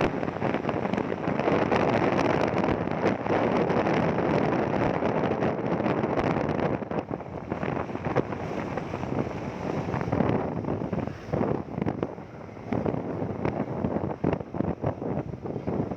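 Wind buffeting the microphone over the road and engine noise of a moving motorcycle. The rush is strongest for the first seven seconds, eases after that, and dips briefly about twelve seconds in.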